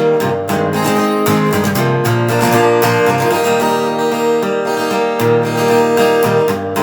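Acoustic guitar strummed in steady chords, with no singing, as the song winds down.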